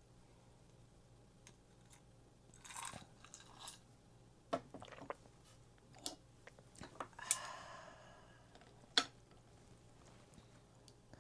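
Close-miked chewing and crunching of food, with a handful of short sharp clicks spread through and a few longer wet mouth sounds, around a third of the way in and again a little past the middle.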